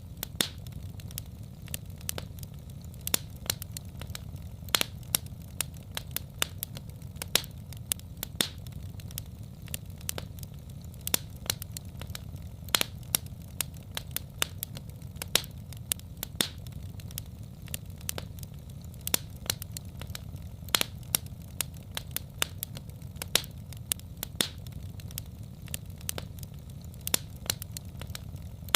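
Fire crackling in a fireplace: irregular sharp pops and snaps, several a second at times, over a steady low rumble of the flames.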